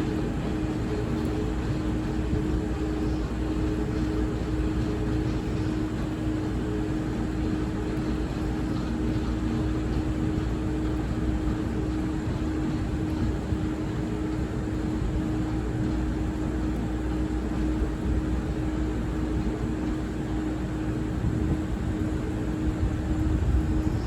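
Taiwan Railway train running: a steady mechanical hum over a low rumble, with a held mid-pitched tone throughout.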